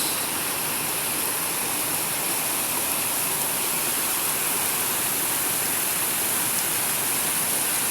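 Steady rush of river water pouring over small cascades.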